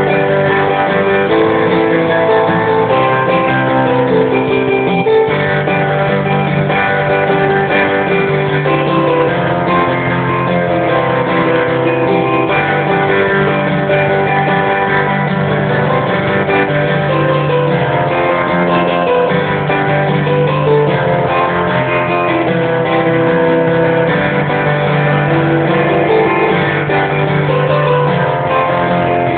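Guitar played continuously, a rock riff with strummed chords, recorded on a phone with a rough sound.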